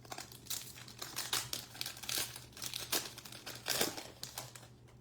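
Foil wrapper of a baseball card pack crinkling and tearing as it is opened, in a quick run of short rustles, loudest about four seconds in.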